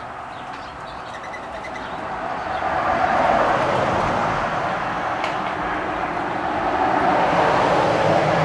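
Engine noise of a passing motor vehicle or aircraft, swelling to its loudest about three seconds in and staying loud.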